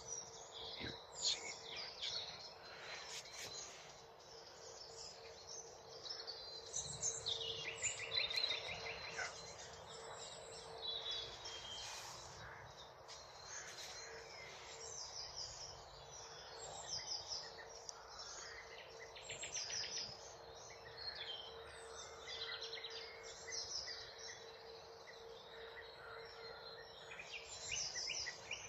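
Common nightingale singing varied phrases, including fast rattling runs of rapidly repeated notes, with other birdsong around it, likely a song thrush answering.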